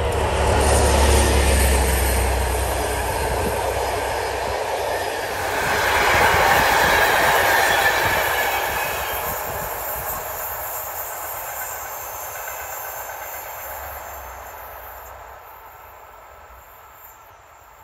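Diesel-hauled passenger train passing close by. The SU45 locomotive's engine drones deeply for the first few seconds, then the carriages' wheel and rail noise peaks about six to eight seconds in and fades steadily as the train moves away.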